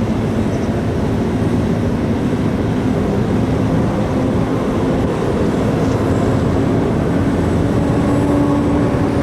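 Large car ferry's engines and machinery running as the ship comes into port: a steady low rumble with a faint hum that grows a little stronger near the end, with wind and water noise mixed in.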